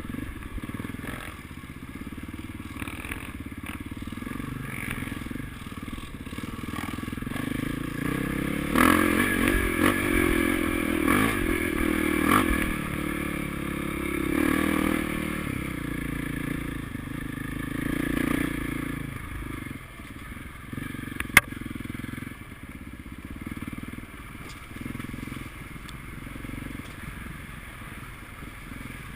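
Motocross bike engines running and revving, growing louder to a peak through the middle and then fading back. One sharp crack about two-thirds of the way through.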